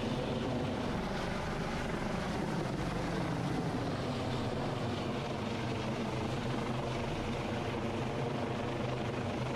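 Coast Guard rescue helicopter running steadily, a constant drone of rotor and engine noise.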